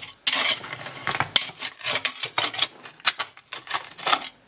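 Cold Steel Special Forces shovel digging, its steel blade scraping and clinking against rocky ground in a run of quick, irregular strokes.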